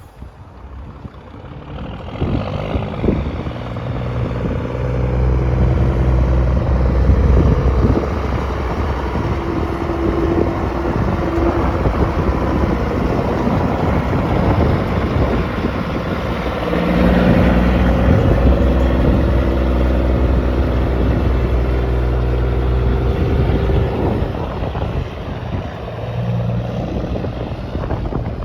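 Heavy diesel lorry engines running as vintage trucks drive past at low speed. The engine note builds over the first few seconds and changes and grows louder again about halfway through as another vehicle comes by.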